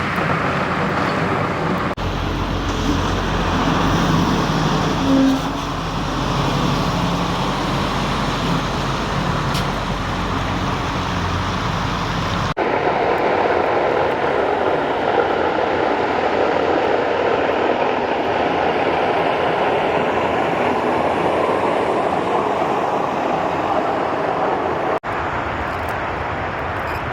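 Vehicle traffic on a snowy road, in several short clips: a low, steady engine running, then after a cut an even rushing road noise without a clear engine note.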